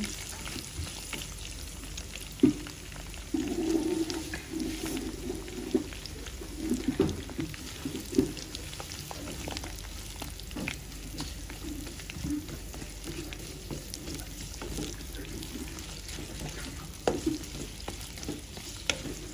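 Shallots, garlic, lemongrass and other aromatics sizzling in hot oil in a nonstick wok while a spatula stirs them, scraping and tapping against the pan. One sharp knock of the spatula on the pan comes about two and a half seconds in.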